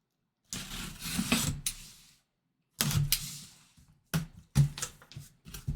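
A cardboard box being opened by hand: two bursts of rustling and scraping, then a run of light knocks and clicks near the end.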